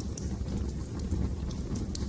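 Wood fire burning in a fireplace: a steady low rumble of flames with sharp crackles and pops, a few of them standing out.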